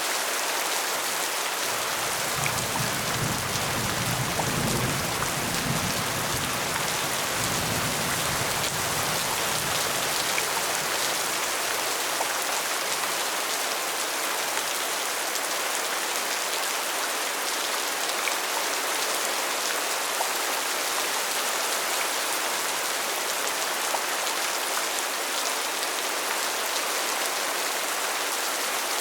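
Steady rain falling and pattering on a surface. A low rumble sits under it for several seconds in the first third, then fades.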